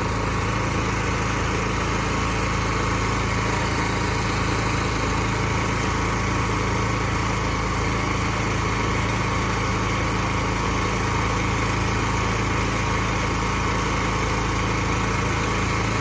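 PackRat pod truck's engine running steadily with a low, even hum and a fast regular pulse, unchanging throughout.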